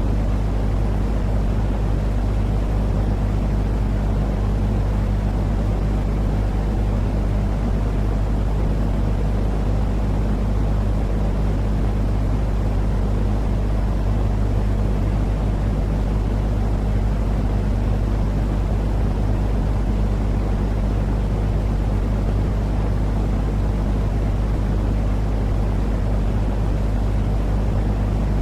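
Steady, unchanging low rumbling noise used to soothe babies to sleep, heavy in the bass with a faint steady hum underneath.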